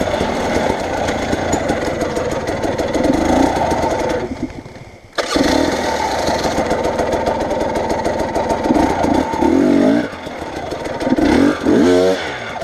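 Motor vehicle engine running under load on a rough track. It drops away sharply about four seconds in and comes straight back, then rises in pitch a few times near the end.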